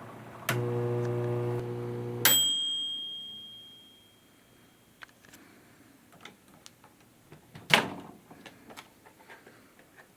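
Microwave oven running with a steady hum that cuts off about two seconds in as it dings once at the end of its cycle, the tone ringing out for a second or so. Light clicks and knocks follow, with one sharp click near the end.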